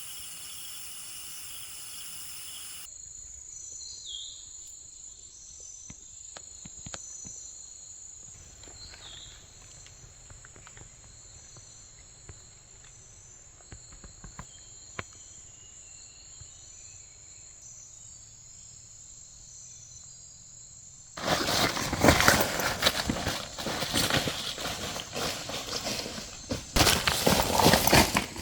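Insects trilling steadily at a high pitch, with a few faint clicks. About three-quarters of the way through, a loud rough rustling noise takes over for the last several seconds, dipping briefly once.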